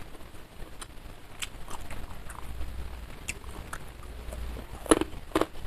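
Close-miked eating sounds: scattered wet mouth clicks and lip smacks as a bite of food is put in the mouth and chewed, with two louder smacks near the end.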